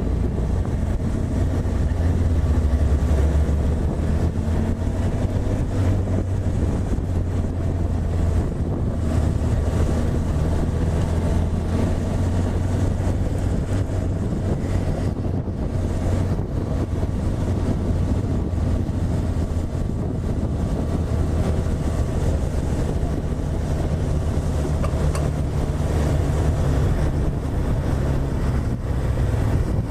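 Honda CB1000R's inline-four engine running at steady revs while riding, with wind rushing over the microphone.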